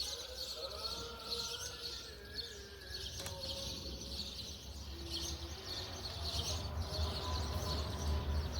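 Many small birds chirping continuously in a dense chorus, with a low rumble growing louder toward the end.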